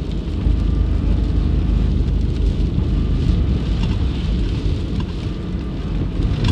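Steady low rumble of a car driving, heard from inside the cabin, with rain hissing and pattering on the car during a heavy storm.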